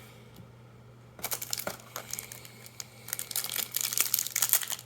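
Foil wrapper of a Magic: The Gathering booster pack crinkling and tearing as it is opened, a dense run of sharp crackles starting about a second in.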